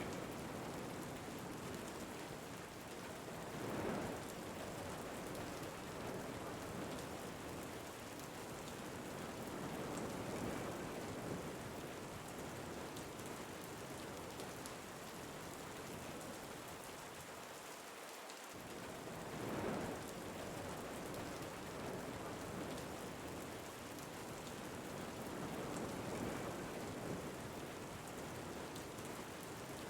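Steady rain falling, with wind swelling in gusts every several seconds.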